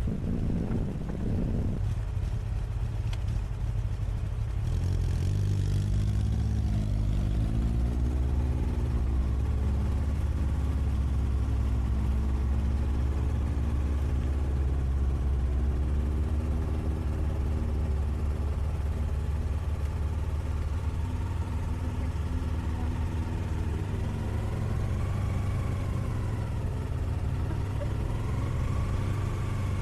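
Motorcycle engine running while riding, its pitch rising and falling several times with throttle and gear changes over a steady low rumble.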